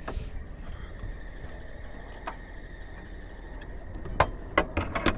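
Chrysler PT Cruiser engine idling steadily, with a few sharp clicks near the end.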